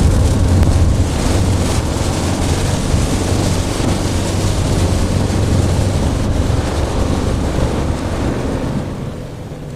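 Steady road and tyre noise of a car driving on a wet road, heard inside the cabin, with a deep rumble underneath. It eases off near the end.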